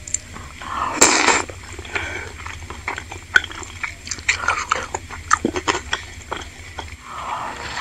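Close-miked eating sounds: a slurp from the spoon about a second in, then chewing of soft, chewy tapioca balls (bakso aci) in spicy broth, with many small wet mouth clicks.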